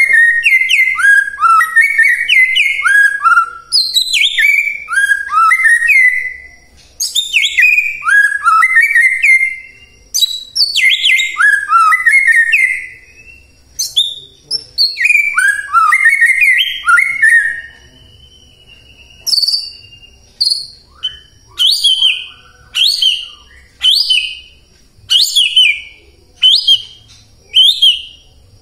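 White-rumped shama singing: fast phrases of quick, descending whistled notes in bursts of a few seconds each. About two-thirds of the way through, the song changes to a run of short, separate notes about once a second.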